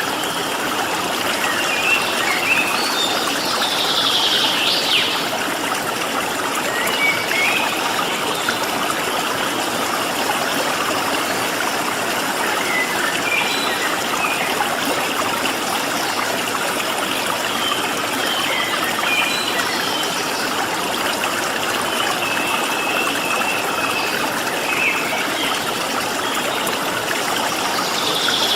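Steady rush of a flowing stream, with small birds calling over it now and then: brief chirps, a few quick falling sweeps and a short trill.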